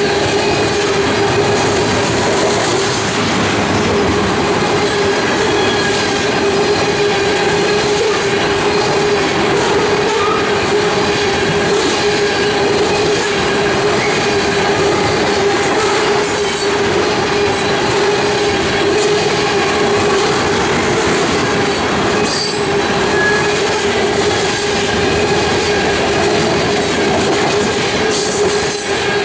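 Freight train cars rolling steadily past, with wheel clatter over the rail joints and a steady squeal from the wheels.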